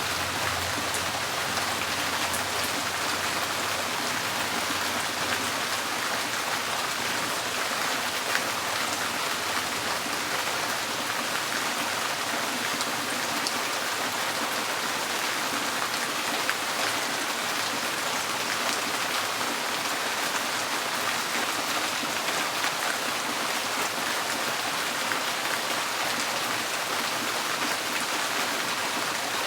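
Steady rain on a tin porch roof: an even, dense patter with scattered sharper drop ticks.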